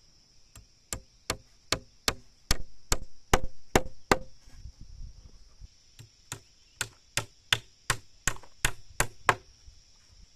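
Hand tool striking wood in two quick runs of sharp knocks, about three a second, with a pause of a couple of seconds between them. A steady high chirring of insects runs underneath.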